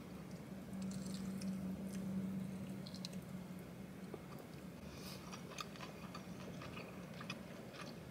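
Close-up eating sounds: wet chewing, small crunches and lip smacks as fried chicken is bitten and pulled off the bone, over a low steady hum that is loudest in the first couple of seconds.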